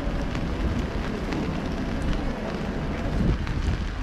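Steady rain with scattered raindrop ticks, under a low rumble of wind on the microphone.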